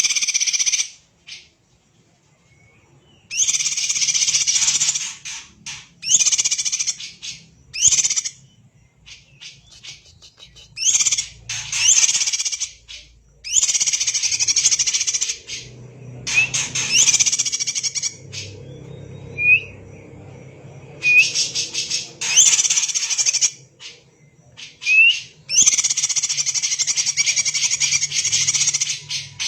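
Cucak ijo (greater green leafbird) singing in dense, rapid song bursts of a second or more each, separated by short pauses. A few single short rising whistles come in the gaps in the second half.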